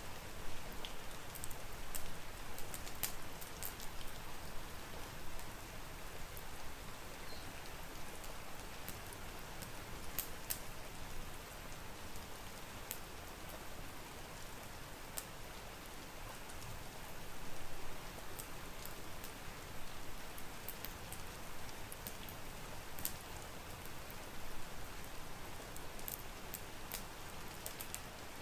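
Steady rain on a surface, with scattered sharp crackles and pops from a wood fire in a fireplace.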